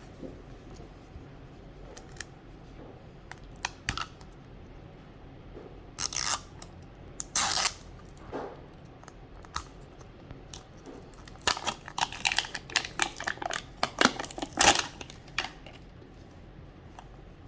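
Plastic wrapping being torn and crinkled off a Mini Brands capsule ball, in irregular short bursts of rustling that come thickest a little past the middle.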